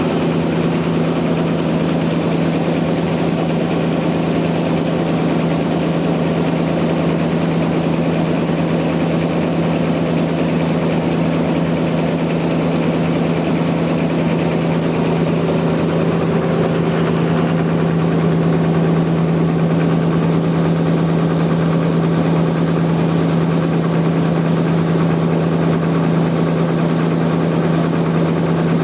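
Sawmill machinery running steadily with a constant, even hum that holds one pitch throughout, with no cutting surges or impacts.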